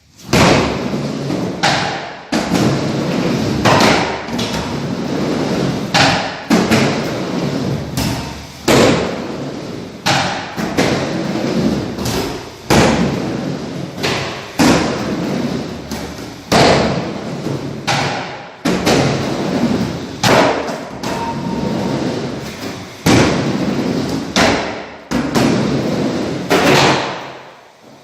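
Skateboard wheels rolling with a steady rumble, broken every second or two by a sharp thud or clack as the board hits the ground.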